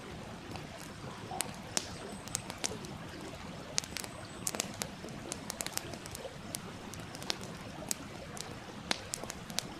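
Wood campfire crackling with many sharp, irregular pops, over a stream running steadily underneath.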